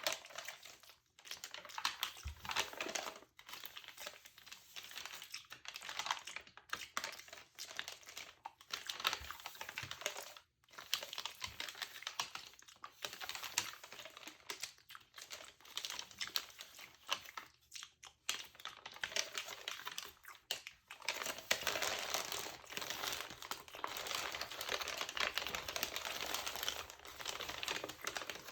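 Close-up crinkling of a textured glossy magazine page: irregular crackles and clicks with short pauses. About three quarters of the way through they become a denser, continuous crackle.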